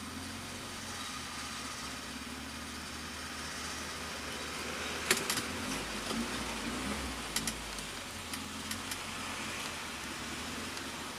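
VW Voyage's AP engine idling steadily, heard from inside the cabin, with a few sharp clicks midway through.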